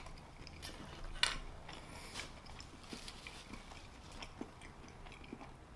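Close-up chewing of a mouthful of pizza fries: faint, irregular wet mouth clicks, with a few sharper clicks near the start and about a second in.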